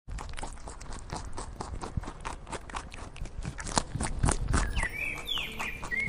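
Rabbit chewing a carrot: close, crisp crunching clicks at an irregular pace. A small bird chirps a few short calls near the end.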